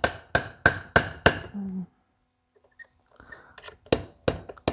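A hammer striking metal in a quick, even series of blows, about three a second, driving a part out of a tractor's fuel injection pump. The blows stop for about two seconds midway, then start again with light taps that build back to full blows.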